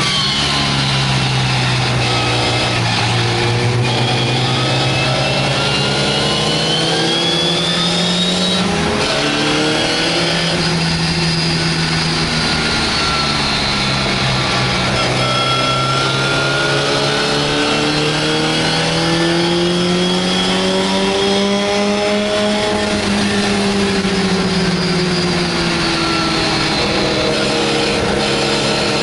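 MGA race car's four-cylinder engine heard from inside the cockpit at racing speed, revs rising under acceleration and falling as it backs off for corners several times, with a brief break about eight or nine seconds in. Wind and road noise run underneath.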